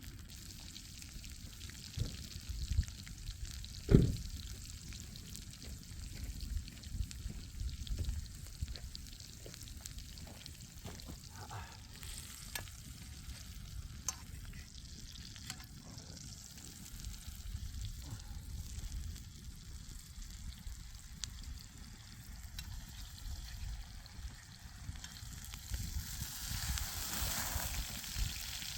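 Chicken breasts sizzling in olive oil in a pan over a campfire, a steady frying hiss with scattered small clicks. There is one sharp knock about four seconds in, and the sizzle grows louder near the end.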